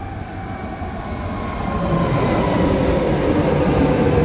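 Deutsche Bahn S-Bahn electric train pulling in alongside the platform. It grows louder as it nears, and its whine falls slowly in pitch as the train brakes to a stop.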